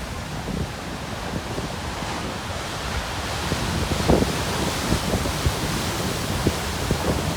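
Large ocean waves breaking on a rocky shore at high tide. The surge of churning water swells about two to three seconds in. Strong wind buffets the microphone with low gusts throughout.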